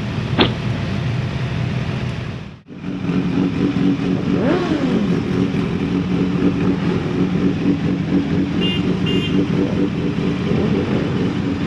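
Motorcycle engine running under way with a steady note, cut off abruptly about a quarter of the way in and then picked up again. A little later the pitch sweeps down once, and two short high beeps come near the end.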